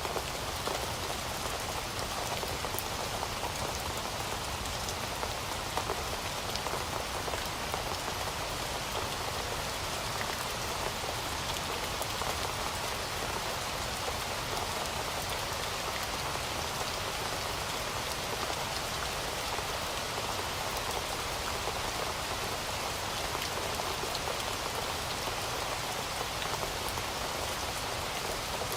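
Heavy rain falling steadily: a constant dense hiss of rain with many individual drops pattering on surfaces.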